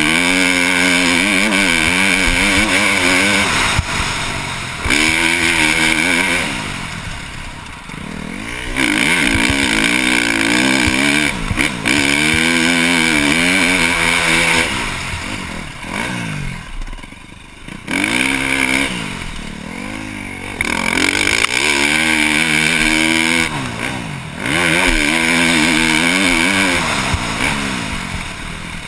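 2012 KTM 350 SX-F single-cylinder four-stroke motocross engine with a Yoshimura exhaust, ridden hard. It revs up through the gears under full throttle, then drops off the throttle, several times over.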